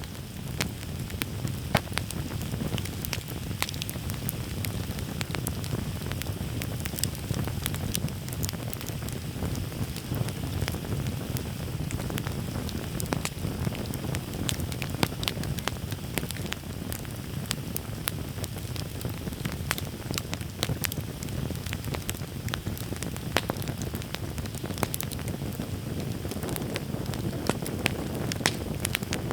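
Wood campfire crackling, with frequent sharp, irregular pops over a steady low rush of the burning fire.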